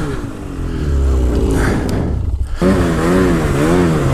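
Snowmobile engine revving: the revs fall away at the start, it runs low for a moment, then revs up again about two-thirds of the way in, the pitch wavering up and down as the throttle is worked. These are sleds stuck in heavy snow.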